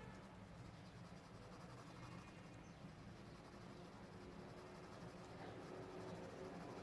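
Faint scratching of a graphite pencil shading on drawing paper, over a low steady hum.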